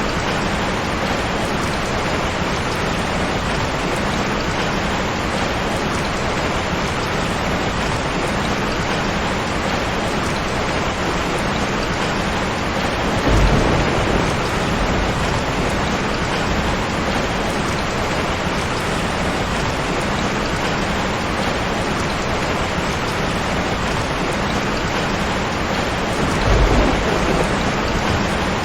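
Steady heavy rain falling, with a short low rumble of thunder about halfway through and another near the end.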